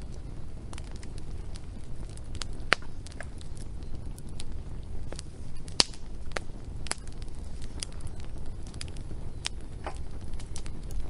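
Wood fire crackling, with irregular sharp pops and snaps, the loudest about six seconds in, over a steady low rumble.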